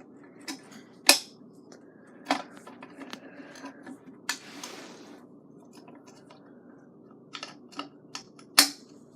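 Sharp metallic clicks and clinks of scooter parts being handled as a wheel and its axle bolt are fitted, a dozen or so separate knocks with the loudest about a second in and near the end.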